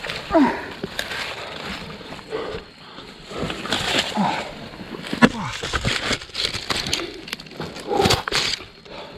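Leaves rustling and twigs snapping with footsteps as someone pushes through dense jungle undergrowth, with a few short grunts or breaths.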